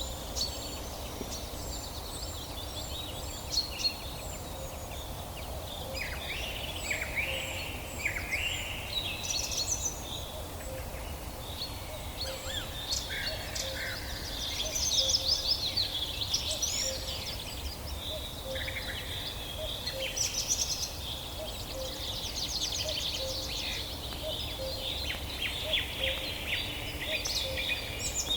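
A chorus of several songbirds singing and calling at once, with quick sweeping notes, rapid trills and strings of short high chirps, over a steady low background rumble.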